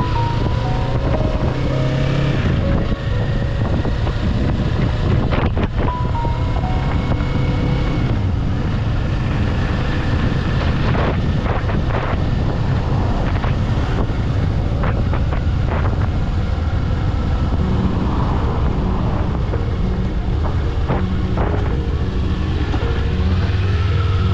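Kawasaki Eliminator 500's parallel-twin engine running while the motorcycle is ridden, its pitch rising and falling with the throttle, with wind noise on the microphone.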